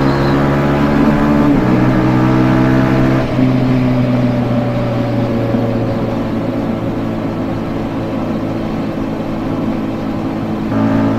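Yamaha Jupiter MX-150's single-cylinder four-stroke engine through its stock exhaust, under way on the road: it pulls under throttle, changes about a second and a half in, then eases off about three seconds in with the pitch sinking slowly, and picks up again just before the end.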